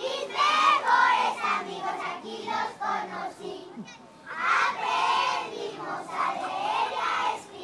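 A group of young voices chanting a cheer together in unison, in two phrases with a brief pause about four seconds in.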